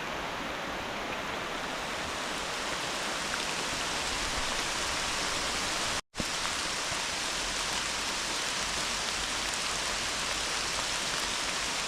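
Steady rushing hiss of a flooded, rain-swollen creek and hard rain falling. It drops out for an instant about halfway through.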